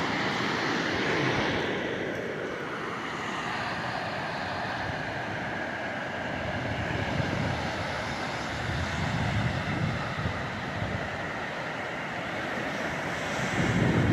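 Wind rushing over the microphone as a steady noisy hiss, with low buffeting gusts about nine seconds in and again near the end.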